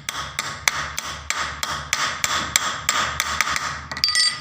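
Repeated hammer blows, about three a second, driving a ball bearing onto the turned end of a square steel bar to fit it. A short metallic ring follows near the end.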